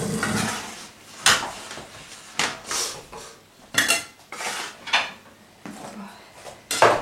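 Plates and cutlery clattering as dishes are handled and set out for a meal: a series of separate clinks and knocks, the loudest near the end.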